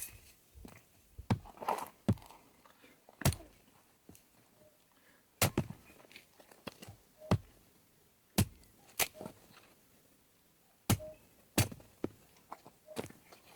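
A dozen or so sharp knocks and taps at irregular intervals, with quiet between them.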